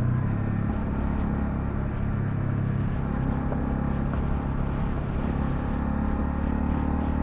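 Honda CL250 single-cylinder engine running under way, heard from the rider's position with a haze of wind and road noise. The engine note shifts about three seconds in.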